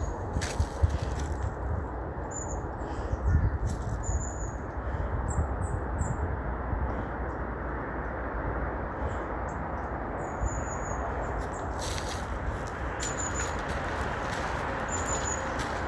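Footsteps crunching through dry fallen leaves on a forest path, with a small bird giving short high chirps about ten times throughout.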